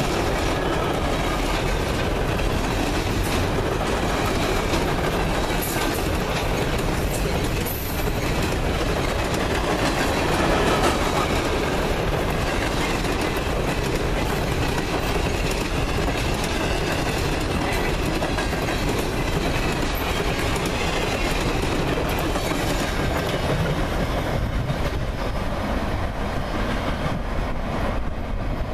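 Loaded freight cars of a trash train rolling past close by: steel wheels clattering over the rail joints with a steady rumble. It thins out near the end as the cars pull away.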